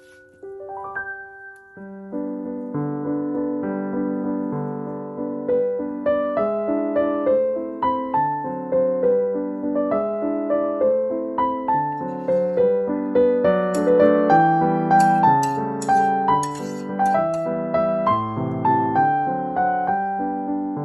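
Background piano music. It opens with a few sparse notes, then fills out into a steady, flowing accompaniment about two seconds in.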